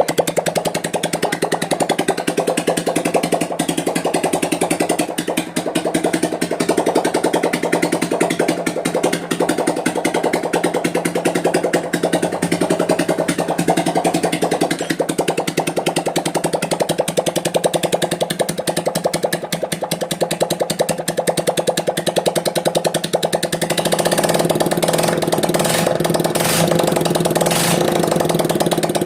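TVS Apache motorcycle's single-cylinder engine idling, with a rapid, even firing pulse. About 24 seconds in it grows slightly louder and steadier.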